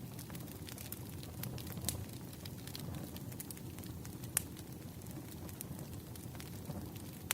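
Burning firewood crackling, with scattered sharp pops over a low steady rumble; one pop stands out about four and a half seconds in.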